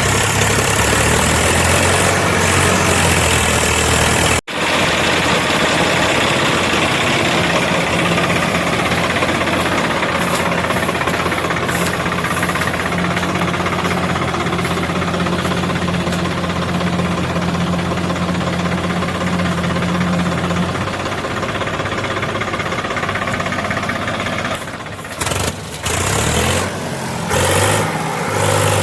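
Diesel tractor engine running steadily, a constant low drone. It breaks off sharply for an instant about four seconds in, and drops out in several short gaps near the end.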